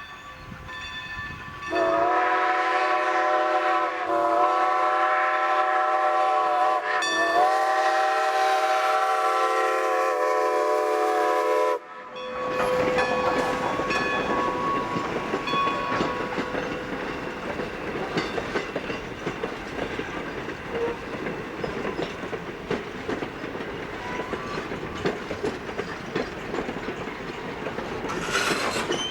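Whistle of Strasburg Rail Road #90, a 2-10-0 Decapod steam locomotive, blowing two long blasts of several notes at once, starting about two seconds in and ending at about twelve seconds. The train then rumbles past, with a rapid clatter of wheels on rail joints.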